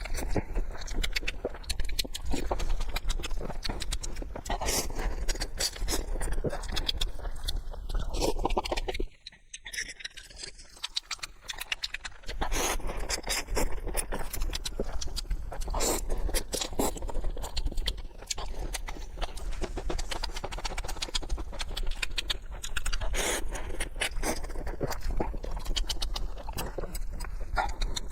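Close-up eating sounds of a person chewing noodles: a dense run of irregular wet clicks and smacks, with a quieter spell about nine seconds in.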